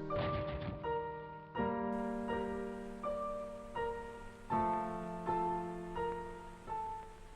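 Slow, gentle piano music: single notes struck every half second or so over held low chords.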